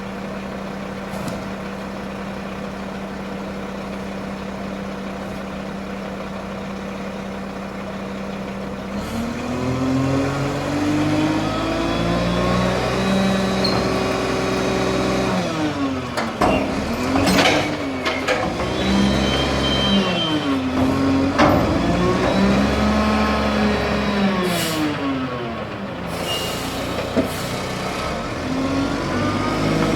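Garbage truck engine idling steadily, then revving up about a third of the way in and surging up and down several times as it drives the hydraulic packer. A few short, sharp noises come during the revving.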